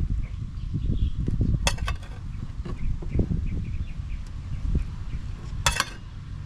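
Outdoor background with a steady low rumble and faint chirps repeating a few times a second, broken by two short sharp clicks about four seconds apart.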